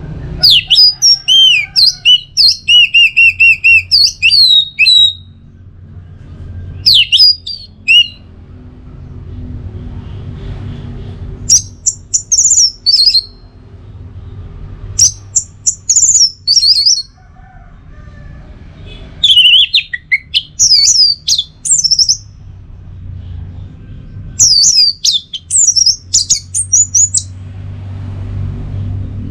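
Orange-headed thrush singing: loud, varied high whistled phrases in about seven separate bursts, each a second to several seconds long, with pauses between them. A low steady hum runs underneath.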